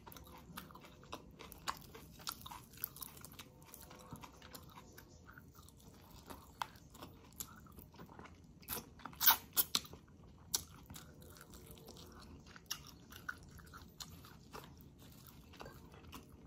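Close-up mouth sounds of a person eating chicken in coconut-milk sauce by hand: chewing and biting with scattered short clicks. The loudest click comes a little past nine seconds in.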